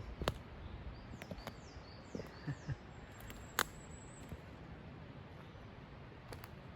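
Forest ambience: a small bird gives four quick, high, descending notes, with a few sharp clicks and soft low thumps scattered around it.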